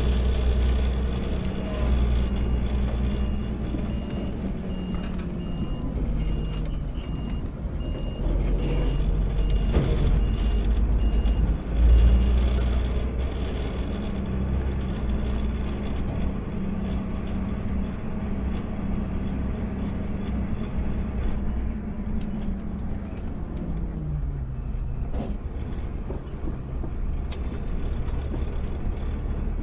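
Automated sideload garbage truck's engine running, heard from the cab, with a loud low surge about twelve seconds in and the engine speed dropping near the end. A thin, evenly repeating high beep sounds over it for the first dozen seconds.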